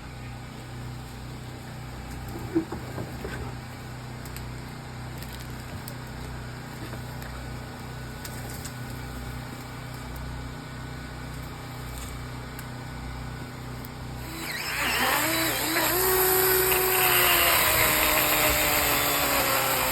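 Small petrol engine idling with a low, steady pulse. About fourteen seconds in it revs up louder, its pitch dipping and climbing as if under load.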